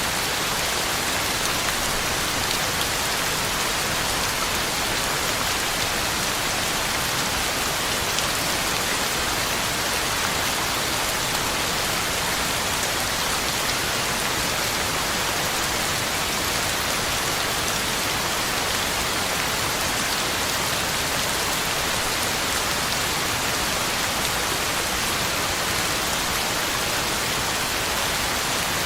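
Heavy rain falling steadily on the ground and leaves, an even, unbroken hiss of rain with no thunder.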